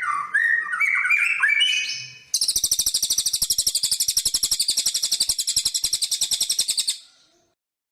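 Songbird song from a masteran tutor recording: a run of varied whistled notes swooping up and down, then a very rapid, high, buzzy trill that starts abruptly, holds for about five seconds and cuts off suddenly.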